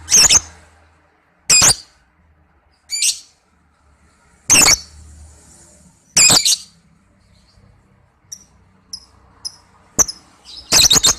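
Lovebird calling: short, loud, high-pitched calls repeated every second or two, with a few faint small chirps near the end and a quick double call at the close.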